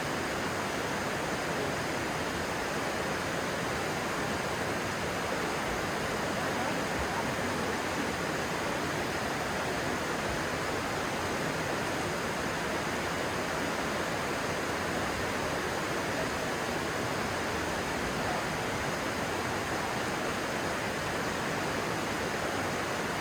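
Steady rush of a stream's water flowing over stones, an even, unbroken sound.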